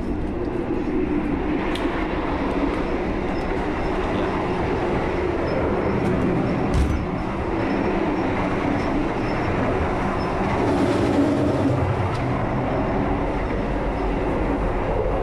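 Running noise of a moving passenger train heard from inside a stainless-steel premium-class coach and its vestibule: a steady rumble of wheels on rail, with a few sharp clicks.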